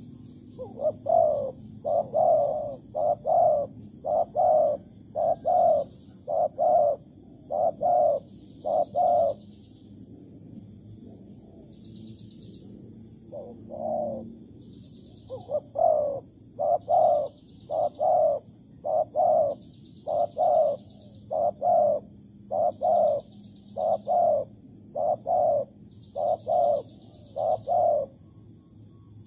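Spotted dove cooing: long runs of low, repeated coo phrases with a pause in the middle. Faint high chirps of other birds sound in the background.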